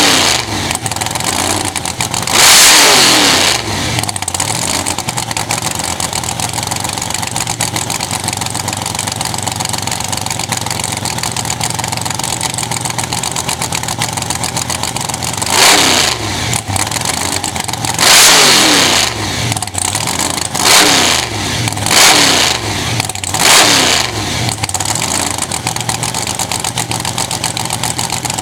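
Supercharged V8 drag car engine idling loudly, with the throttle blipped about six times; the longest revs come near the start and around the middle.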